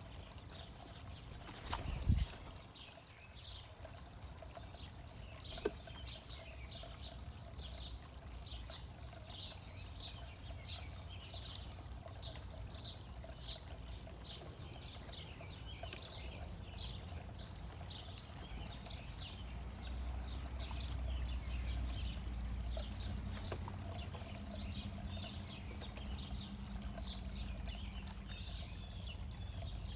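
A bird calling over and over, short quickly falling high notes at about two a second, over a low outdoor rumble. A single sharp thump about two seconds in.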